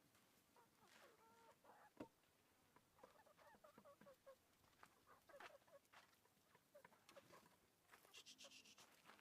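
Faint chickens clucking, with one sharp knock about two seconds in.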